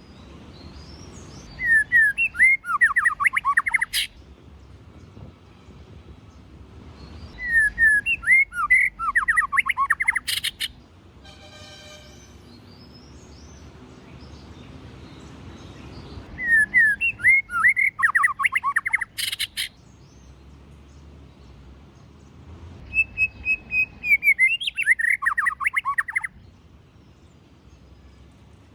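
White-rumped shama singing four short phrases several seconds apart. Each phrase is a quick run of whistled notes stepping down in pitch and ends in a sharp click.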